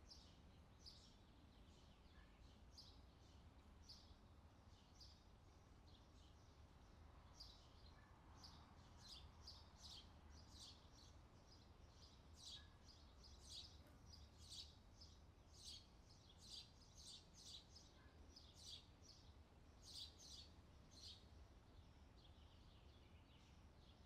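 Faint outdoor summer ambience: small birds chirping in quick repeated notes, busiest in the middle stretch, over a steady low background rumble.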